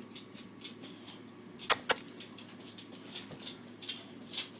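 Small noises from a dog: a run of faint, short scratchy ticks, with two sharp clicks close together about two seconds in.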